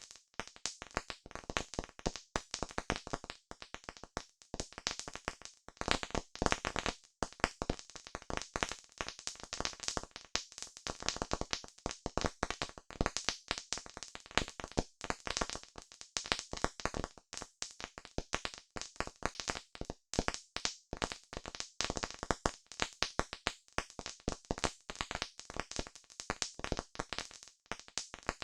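Campfire crackling: a dense, irregular run of sharp pops and snaps, many a second, with no let-up.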